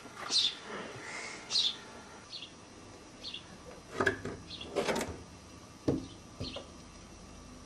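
Small birds chirping in short, high calls about once a second, some sweeping downward, with a few sharp knocks and bumps through the middle, the loudest about five seconds in.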